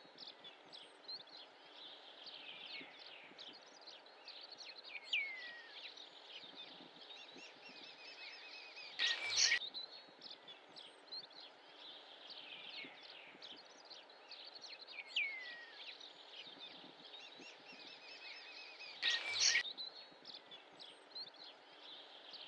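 Birds chirping and singing: a dense chatter of high chirps with a louder flurry about every ten seconds and a falling whistle a few seconds after each. The same stretch of song repeats, like a looped birdsong recording.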